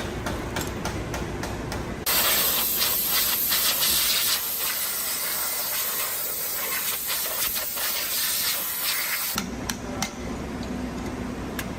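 A loud pressurised spray hissing, starting about two seconds in and cutting off near the end. Before and after it there is a low mechanical hum with regular ticks.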